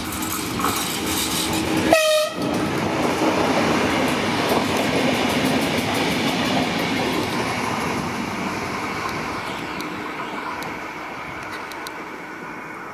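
Renfe Media Distancia passenger train passing close at speed: a short horn blast about two seconds in, then loud rushing and clattering of wheels on rails as the coaches go by, fading over the last few seconds.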